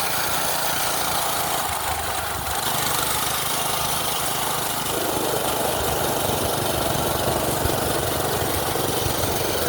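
Small single-cylinder minibike engine running steadily under a constant hiss.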